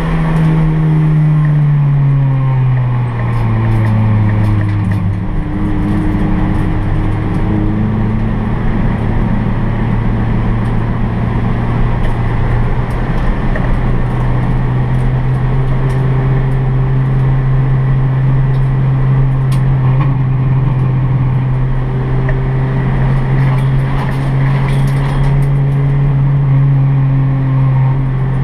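Honda Brio race car's 1.2-litre L12B i-VTEC four-cylinder engine, heard from inside the cabin. The revs fall over the first few seconds, then the engine holds a steady middling pitch that creeps slightly higher in the second half, with tyre and road noise underneath.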